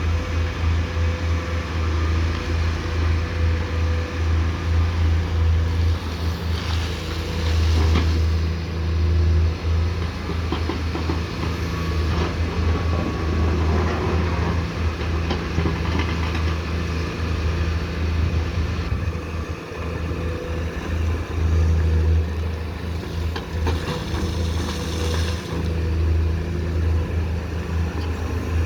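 Komatsu PC210 hydraulic excavator's diesel engine running steadily with a deep hum while it works, its level rising and falling with load. There are several brief noisier stretches of mechanical hiss and scraping on top.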